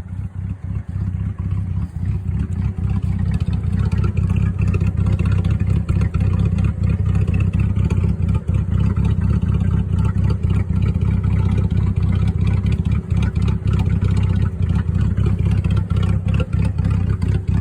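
S197 Ford Mustang with a chopped cam idling with an uneven, choppy lope through an open exhaust: shorty headers, true duals, no cats and no mufflers. It grows louder over the first few seconds, then holds steady.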